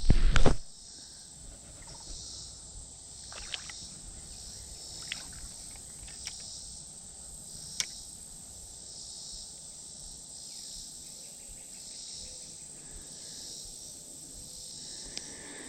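Insects chirring steadily in a high, pulsing chorus, with a loud low rumble of handling noise on the microphone at the very start and a few sharp clicks scattered through the first half.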